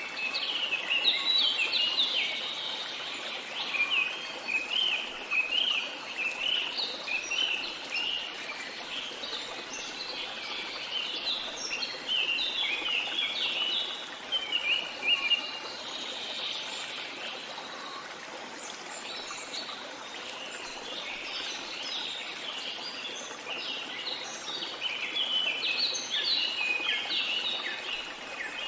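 Songbirds chirping and twittering in quick, dense runs of high notes over the steady rush of flowing water. The birdsong thins out for a while midway and picks up again near the end.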